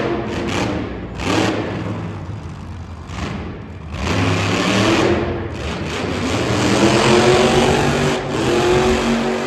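Monster truck engine revving hard, dropping back for a couple of seconds, then climbing again about four seconds in and staying on the throttle.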